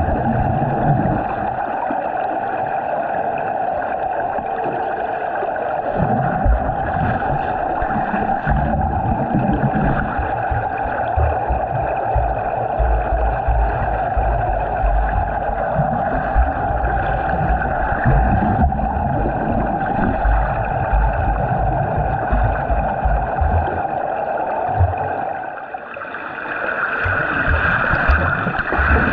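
Swimming in a pool: a steady rush of churning water with low, irregular thumps from the strokes. About 25 seconds in it drops away briefly, then comes back brighter.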